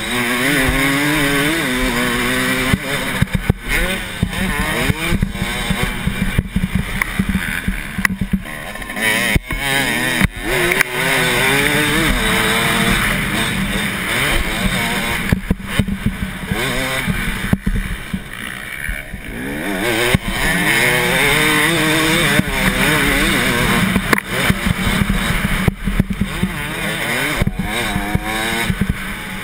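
Motocross bike engine at race pace, heard from the rider's helmet, revving up and down repeatedly as it shifts and runs through turns, with a few short throttle cuts.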